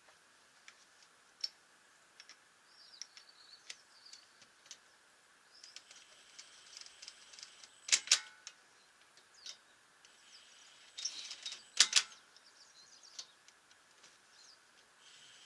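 Small birds chirping in the background, with two loud, sharp clicks, each a quick double, about eight and twelve seconds in.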